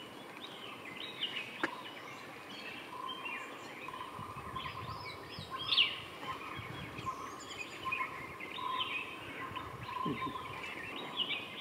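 Wild forest birds chirping and calling, with many short, overlapping notes, some rising and some falling.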